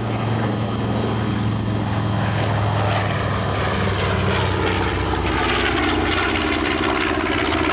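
B-25 Mitchell bomber's twin radial piston engines running during a flyby, a steady low propeller drone. The sound grows harsher and fuller in the second half as the bomber comes closer.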